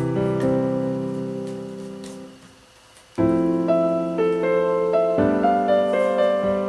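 Background piano music: notes fade away over the first few seconds, a short pause follows, and then the piano starts again about three seconds in.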